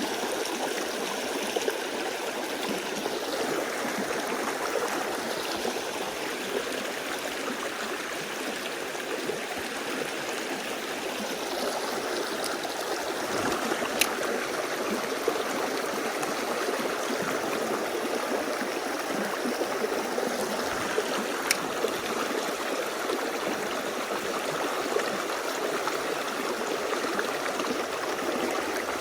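Mountain stream water flowing, a steady rush with no let-up. Two brief sharp clicks stand out, about halfway through and again some seconds later.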